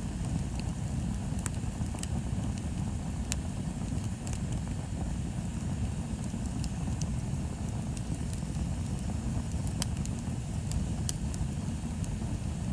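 Bonfire burning: a steady low rumble with sharp crackles and pops from the burning wood, about a dozen scattered through.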